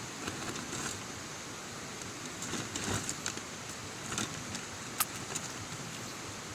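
A steady hiss with a few scattered clicks and knocks, the sharpest about five seconds in.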